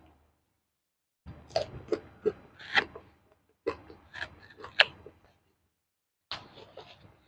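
Close-miked chewing of crunchy food: sharp crackling crunches in three bursts, about a second in, in the middle and near the end, with dead silence between.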